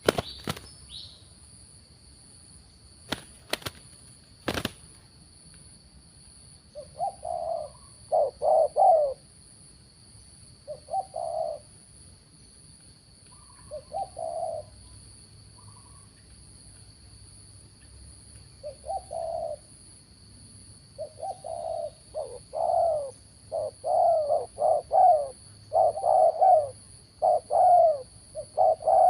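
Spotted doves cooing in repeated phrases, sparse at first and then coming thick and overlapping in the last third, as if more than one bird is calling. A few sharp clicks sound in the first few seconds.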